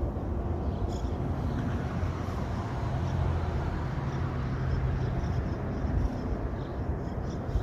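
Steady low rumble of a passing motor vehicle, with an engine hum that swells from about a second in and fades after about five seconds.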